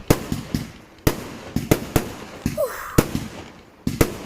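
Fireworks going off: a rapid, irregular string of sharp bangs, about a dozen in four seconds.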